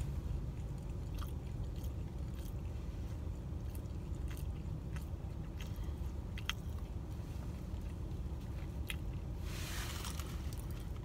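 A person chewing a bacon, egg and cheese English muffin sandwich with their mouth, giving scattered small wet clicks, over a steady low rumble. A brief breathy hiss comes near the end.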